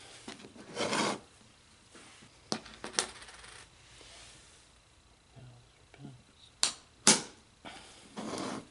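Neodymium magnets snapping onto a steel circular saw blade, as sharp metallic clicks in two pairs, each click about half a second after the last, with short scraping as magnets slide across the steel.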